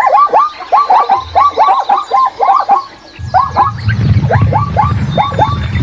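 Zebra call: a rapid series of short, yelping barks, about six a second, with a brief break near the middle and a low rumble underneath in the second half.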